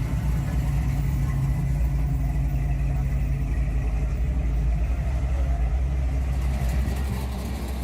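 Car engine running close by with a deep, steady rumble, easing off slightly near the end.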